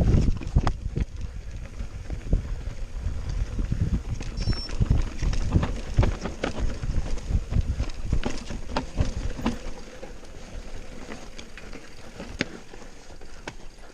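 Mountain bike descending a rough trail: irregular rattling and knocking of the bike over stones and roots, with a low rumble of wind on the microphone. The rattling eases off and gets quieter about ten seconds in.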